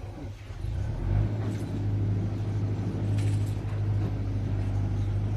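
An engine running with a steady low hum, growing louder about a second in and then holding steady.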